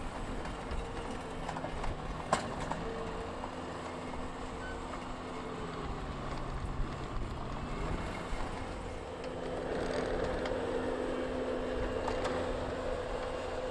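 An engine running steadily at low revs, a constant hum that grows louder about ten seconds in.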